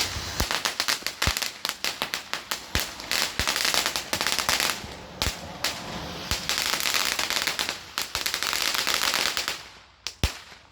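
Cone fountain firework spraying sparks: a steady hiss under dense, rapid crackling, dying away about ten seconds in, followed by one last sharp crack.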